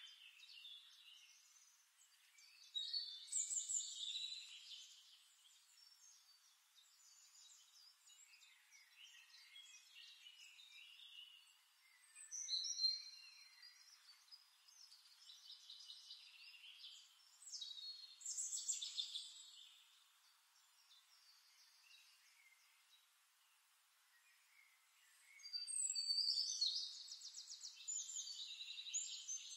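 Small birds chirping and trilling in short bursts every several seconds, with fainter chirps between. The longest and loudest burst comes near the end.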